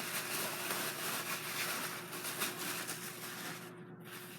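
Faint rustling and handling noise as rotor blades and their packaging are moved about, over a faint steady hum.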